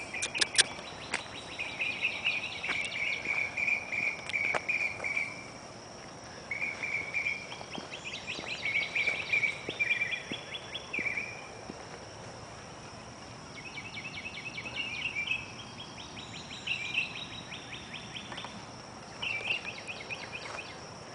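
Night insects calling outdoors: bouts of rapid pulsed chirping, each lasting one to four seconds and repeating throughout, over a steady high-pitched insect drone.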